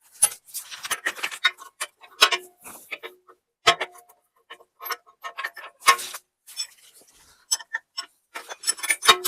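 Irregular metal clicks and clinks of a wrench working bolts on a steel PTO driveshaft, some strikes leaving a short metallic ring.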